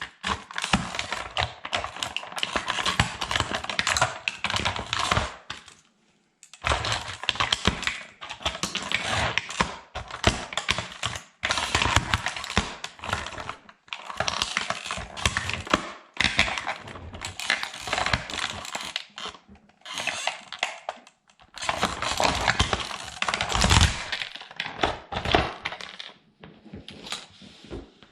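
Plastic toy military truck being crushed underfoot by a sandal: rapid crackling, cracking and clattering of breaking plastic in bursts of a few seconds, with brief pauses between them.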